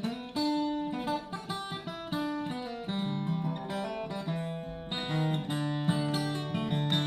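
Solo acoustic guitar playing a song's instrumental introduction: a run of picked notes over a low bass line, with no singing.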